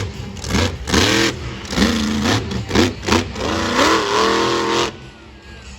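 Monster truck engine revved in a string of quick throttle blips, each rising and falling in pitch. It ends in a longer rev about four seconds in that cuts off sharply about a second later.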